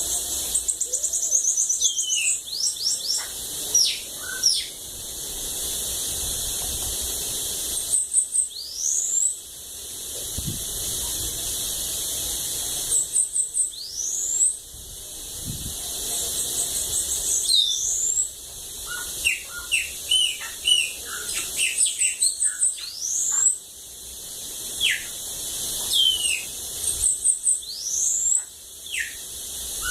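Bananaquit (sibite) singing: thin, high phrases of rapid ticking trills and sharp downward-sliding whistles, repeated every few seconds over a steady high hiss.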